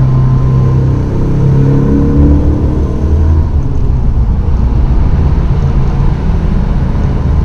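A car engine running hard at speed, with a rising pitch about one to two and a half seconds in that then settles into a steady drone.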